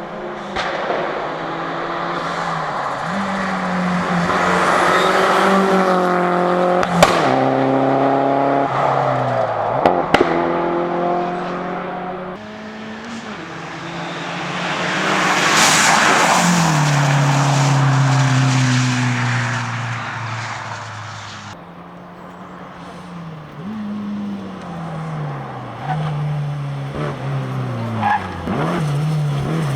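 Toyota Celica rally car at full stage pace: the engine revs climb and drop sharply through repeated gear changes, with a few stepped downshifts near the end. Two sharp cracks come about seven and ten seconds in, and a burst of tyre and surface hiss rises and fades in the middle.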